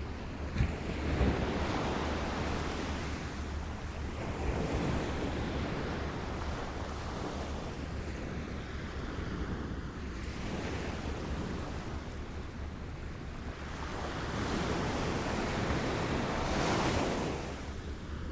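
Small waves lapping against a shore, a wash of water that swells and recedes every few seconds, with the largest swell near the end. A steady low rumble runs underneath.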